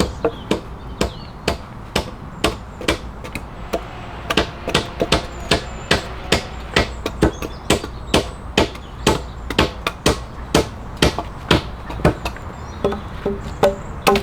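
Rapid, regular hammer blows striking wood, about two to three a second. Near the end each blow carries a short ringing tone.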